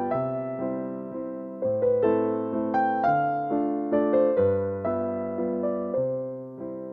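Background piano music: slow chords struck and left to ring and fade.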